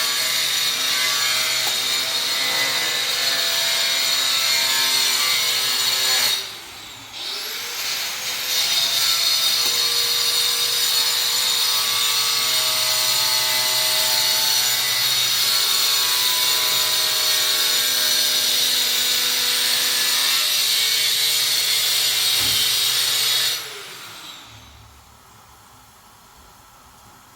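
Electric power cutting tool running in two long cuts. Each cut ends with the motor winding down in a falling whine, and the second cut starts about two seconds after the first stops.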